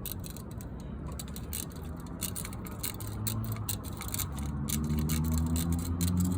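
Shears snipping through window screen mesh, a string of irregular sharp clicks. From about halfway in, a low engine hum, likely a vehicle running nearby, grows louder and rises slightly in pitch.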